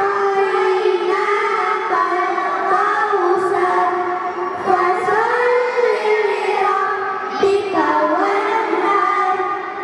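A group of children singing together in unison, with long held, gently bending notes.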